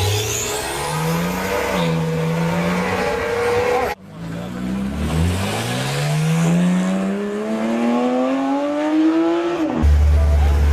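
High-performance car engines revving under acceleration. For the first four seconds the engine note rises and dips; it then cuts off suddenly, and a second engine pulls hard with its pitch climbing steadily for about five seconds before stopping abruptly.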